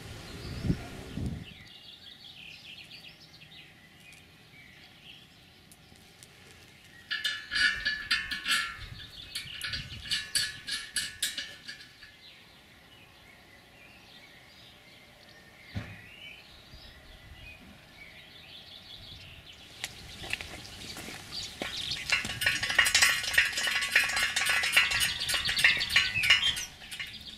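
Birds singing outdoors in two stretches of rapid, high-pitched chirping, the second longer, over a quiet background.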